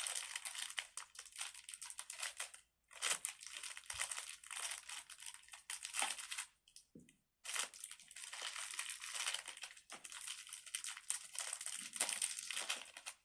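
Thin plastic packaging crinkling as it is handled, in three long stretches of dense crackling with brief pauses between them.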